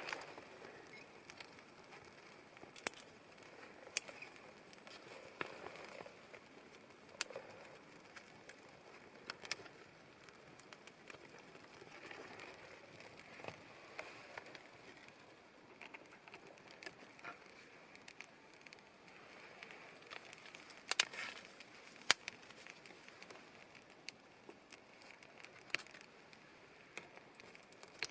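Wood campfire crackling: sparse sharp pops over a faint hiss.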